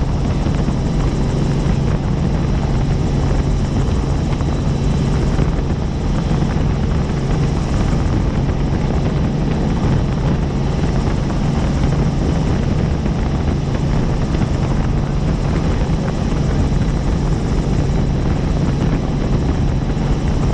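Helicopter in flight: a steady, loud drone of rotor and engine with a thin constant high whine above it.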